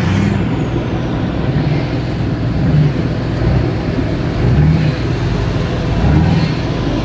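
Vehicle engine running steadily under load, swelling in pitch and loudness five times as the vehicles work to pull a stuck jeep free.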